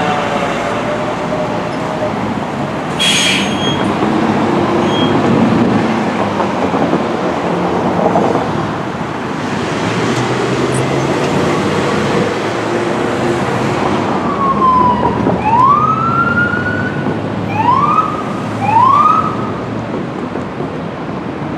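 Emergency vehicle sirens and traffic noise: a siren falling in pitch as it winds down at the start, a brief hiss about three seconds in, and near the end a few short rising siren whoops.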